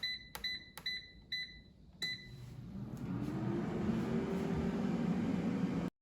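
Air fryer control panel beeping with each button press, about two beeps a second. About two seconds in, the air fryer's fan starts and spins up with a rising hum, then runs steadily until the sound cuts off suddenly near the end.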